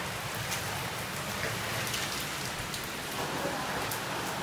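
Heavy rain pouring down steadily, with scattered sharp ticks; the rain is mixed with a very little tiny hail.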